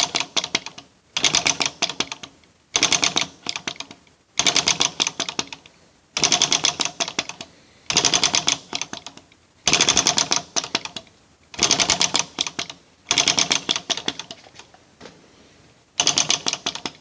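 AFCF1 flame licker (vacuum) model engine turning over in short clattering runs: about ten bursts of rapid clicking, each about a second long and dying away, one every 1.5 to 2 seconds. Each attempt turns it over well and it seems to want to run, but it does not keep going.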